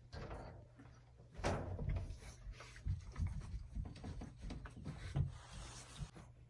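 Irregular knocks, thumps and rustling over a steady low hum, with the loudest knock about a second and a half in.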